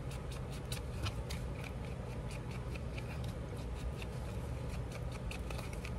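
Edges of a piece of scrap paper being distressed by hand: quick, irregular scraping strokes, several a second, along the paper edge.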